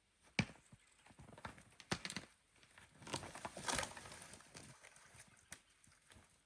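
Scattered sharp knocks and clicks, with a longer crunching rustle from about three to four and a half seconds in.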